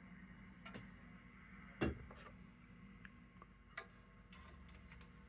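Faint scattered clicks and taps of hands and small parts working on a radio chassis while a new dial cord is threaded around the tuning pulleys, with one sharper knock about two seconds in and a few quick ticks near the end, over a low steady hum.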